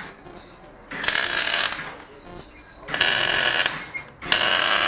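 Three short bursts of MIG welding on a motorcycle exhaust system, each a harsh crackling buzz lasting under a second, like tack welds: about a second in, about three seconds in, and near the end.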